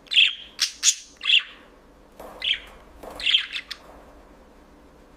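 Budgerigar chirping: a quick run of short, sharp high calls, then two shorter bouts of chatter, fading out over the last second or so.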